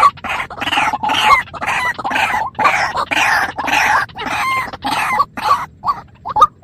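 A bird giving harsh, rapid squawking calls, two or three a second, breaking into shorter chirps near the end.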